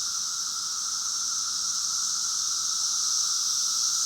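A dense chorus of 17-year periodical cicadas: a steady, very loud, unbroken high-pitched hiss with a lower whine beneath it. It is the males singing to attract females.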